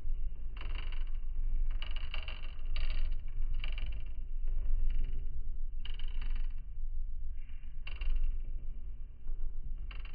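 Wood fire burning in a fireplace: a steady low rumble with irregular crackles and snaps, about ten bursts spread unevenly, some in quick pairs.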